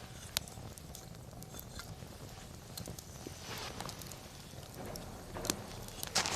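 Wood fire crackling, with scattered sharp pops and two louder crackling flare-ups, about three and a half and six seconds in.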